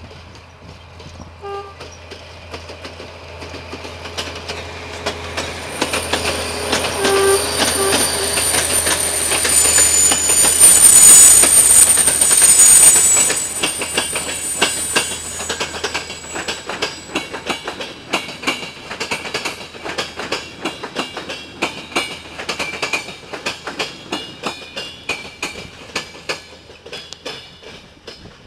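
Diesel locomotive hauling passenger coaches approaches and passes close by, its noise building to a peak about eleven seconds in, with a short horn blast about seven seconds in. As the coaches run past, their wheels clickety-clack in a rapid, even rhythm over the rail joints.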